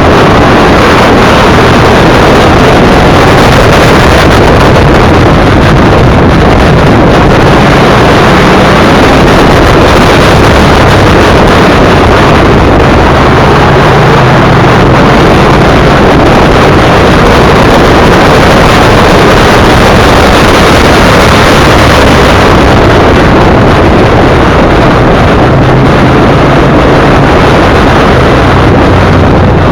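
Motorcycle riding at speed: loud, steady wind roar buffeting the microphone over the low hum of the engine, whose pitch shifts a little now and then.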